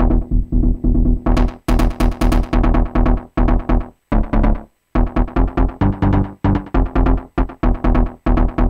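A trance riff of rapid, evenly chopped synthesizer chords over a steady low kick. The riff comes from Access Virus TI and Nord Lead synths. The pattern drops out briefly a little after four seconds in and then comes back.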